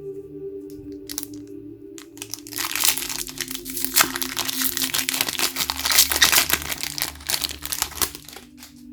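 Pokémon card packaging crinkling and crackling as it is handled, dense from about two seconds in until shortly before the end. Soft steady ambient music tones sit underneath.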